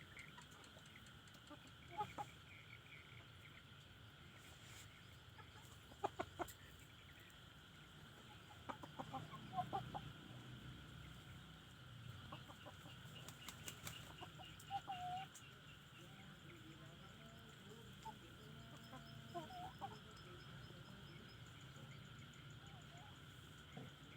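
Chickens, fighting cocks, clucking now and then with short calls, mixed with a few quick sharp clicks or knocks, over a faint steady background drone.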